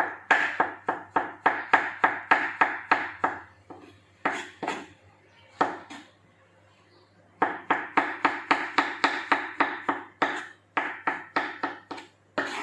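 Knife slicing quickly through mushrooms against a cutting board, in runs of rapid strokes about four a second, with a few short pauses between runs.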